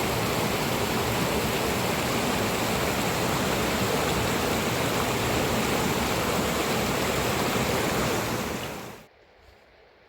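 Mountain river water rushing steadily, cutting off abruptly near the end.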